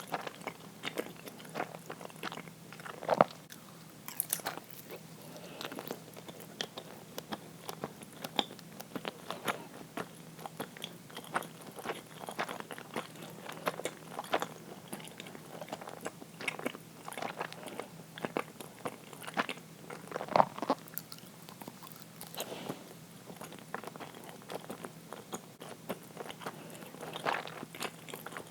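Close-miked mouth sounds of someone chewing soft, sticky uirō (sweet steamed rice cake): a steady run of small wet clicks and smacks. Louder single clicks come about three seconds in and again about twenty seconds in.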